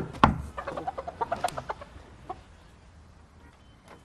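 Rooster clucking in a quick run of short calls that fades out about two seconds in. Two sharp knocks come right at the start.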